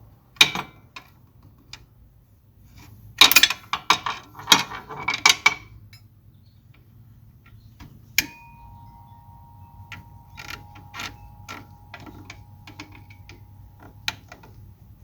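Metal hand tools clicking and clattering against a hose clamp as it is worked into place with pliers and a pry bar, with a busy cluster of clanks about three to five seconds in and scattered lighter clicks later.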